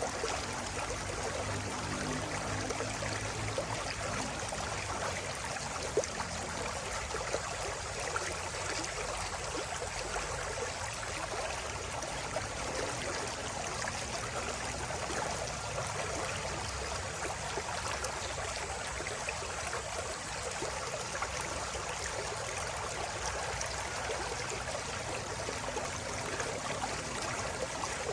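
River water flowing and babbling steadily over stones, a continuous splashing rush. A faint low drone sits under it for the first few seconds.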